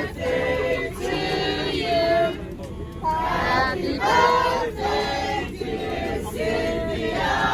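A group of voices singing together, several pitches at once, with a steady low rumble underneath.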